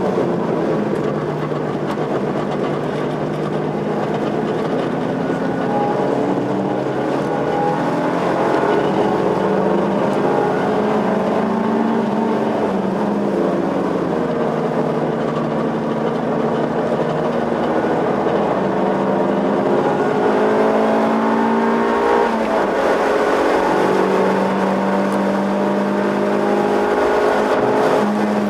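Suzuki Swift's engine driven hard around a circuit, its pitch climbing under acceleration and dropping again several times as it works through the gears and corners, over steady road and wind noise.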